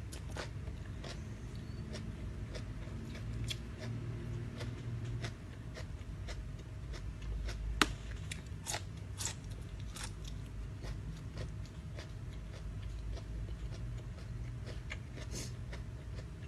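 Close-up eating sounds: chewing with scattered sharp clicks and small crunches, as a person eats a rice noodle salad with crispy squid. One click about eight seconds in is louder than the rest.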